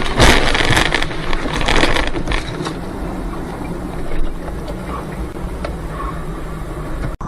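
Vehicle noise picked up by a dash camera: a loud rushing noise with a few sharp knocks in the first two seconds or so, then steadier, quieter road noise.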